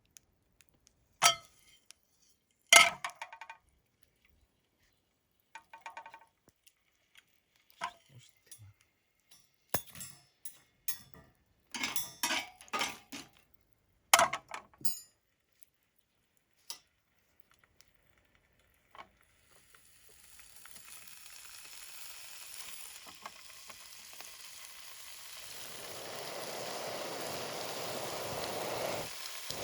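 Scattered clinks and knocks of metal utensils and cookware being handled. About two-thirds of the way in, food starts sizzling in a pan over the campfire, and the sizzle grows steadily louder.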